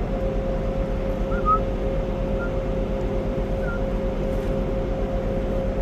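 Steady mechanical hum with a constant mid-pitched tone and a low rumble underneath, with three faint short high squeaks in the first half.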